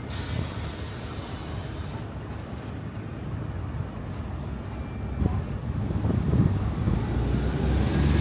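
Low rumble of road traffic, growing louder about five seconds in.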